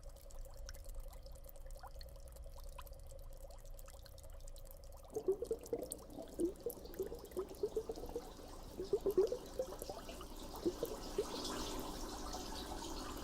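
Water pouring and dripping. From about five seconds in come irregular bubbling gurgles, and near the end a steadier rush of water.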